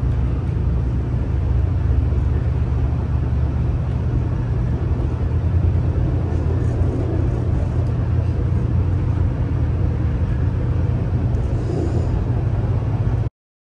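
Steady low rumble of a SunRail commuter train running along the track, heard from inside the passenger coach. It cuts off suddenly near the end.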